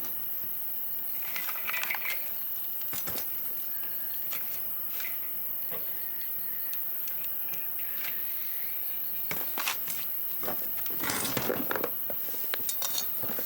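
Campfire crackling with scattered sharp pops, over a faint steady chirring of insects. A short burst of rustling and handling noise comes near the end.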